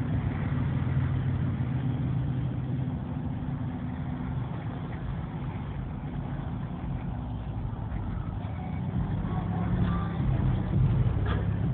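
A car engine running with a low, steady drone that swells louder about ten seconds in.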